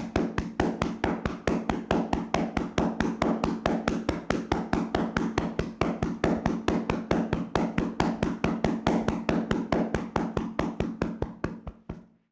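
Hands slapping a body in a rapid percussive tapping massage, an even run of about five strikes a second that fades and stops just before the end.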